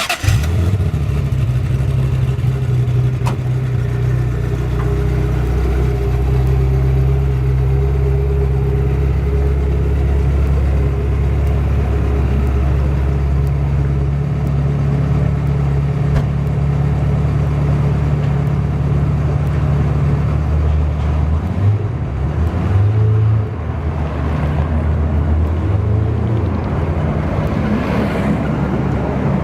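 Ferrari F355's 3.5-litre V8 breathing through a Supersprint exhaust. It catches at the start, settles into a steady idle for about twenty seconds, then is blipped a couple of times with short revs. It rises in one more rev near the end.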